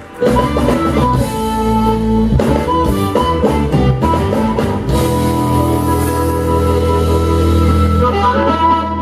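Live blues band playing loudly, with a brief break right at the start and a long held chord from about five seconds in.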